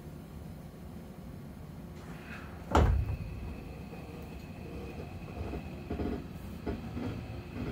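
Seibu 40000 series commuter train car at a standstill: a steady low hum, one loud sharp thump about three seconds in, then a few lighter knocks.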